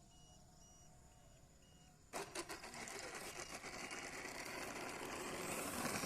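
RC model airplane motor starting up about two seconds in and running up in power, getting louder until it cuts off abruptly; before it, faint repeated beeping.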